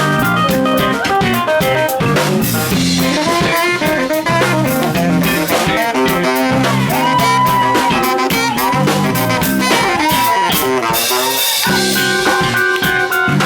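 Live funk band playing: drum kit, bass guitar, keyboard and a horn section of saxophone and trombone. Midway through, a lead line holds a high note with small bends for a few seconds.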